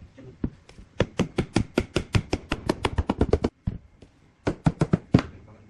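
Rapid sharp knocks of a tool striking wood, about five a second for some two and a half seconds, then after a short pause a few more.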